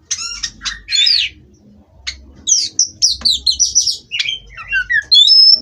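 Oriental magpie-robin (kacer) singing: loud, varied song of quick chirps, sweeping whistles and rattling notes in short phrases with brief pauses, ending on a held high whistle.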